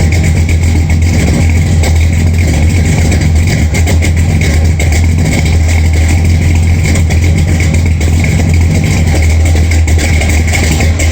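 Ford 429 big-block V8, fitted with an Edelbrock intake and Edelbrock Performer RPM cam, idling steadily while warming up after a cold start.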